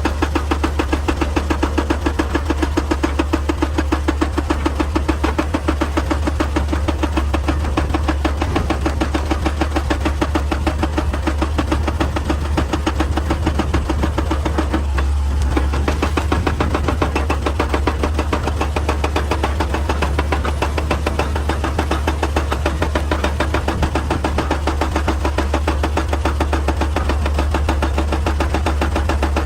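Excavator at work: its diesel engine runs steadily under a deep hum with a fast, even rhythmic pulse, easing briefly about halfway through.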